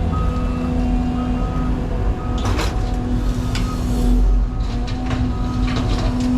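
CAT 323 excavator's diesel engine running steadily under hydraulic load, with several sharp clanks and scrapes from the bucket working dirt and rock in the middle of the stretch.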